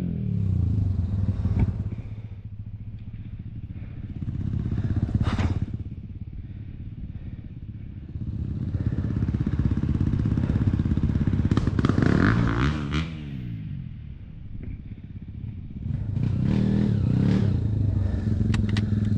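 Off-road dirt bike engine running and being revved, the revs rising and falling several times, with a few sharp clacks in between.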